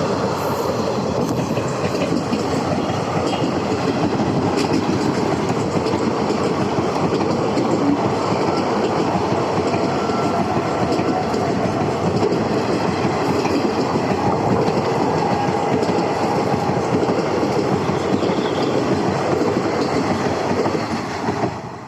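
Indian Railways Vibhuti Express passenger train running past, its coach wheels clattering over the rail joints in a steady, loud rush of noise that falls away near the end.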